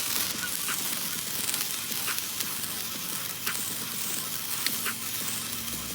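Firework hissing steadily, with scattered small crackles and pops.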